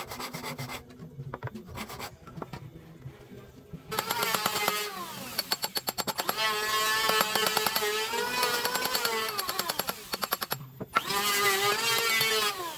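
Scattered knocks and scraping on wood, then about four seconds in an electric power tool starts cutting wood. Its motor whine dips in pitch and recovers several times as it bites under load, with a short break about two seconds before the end.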